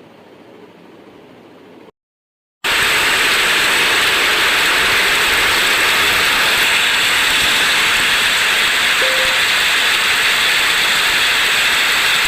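Faint steady hiss, then a brief dead-silent gap, then heavy rain as a loud, even hiss that starts abruptly about two and a half seconds in and holds steady.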